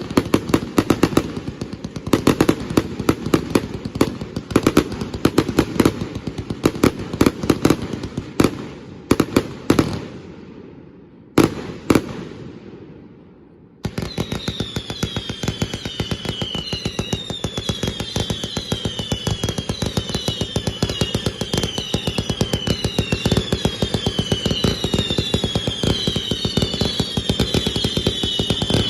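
Fireworks bursting close by in a rapid barrage of loud bangs that thins out and fades about ten seconds in. From about fourteen seconds, a dense crackle with many overlapping falling whistles starts abruptly.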